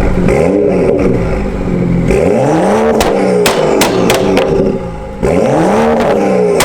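BMW 235i's turbocharged inline-six on a pop-and-bang "flame" ECU tune, loud, revved hard three times, the pitch climbing and falling with each blip. Between the revs the exhaust fires a string of sharp pops and cracks as the throttle closes.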